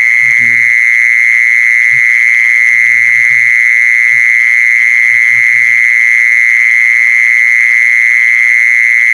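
Mole cricket singing: a loud, steady, high-pitched trill that runs on without a break.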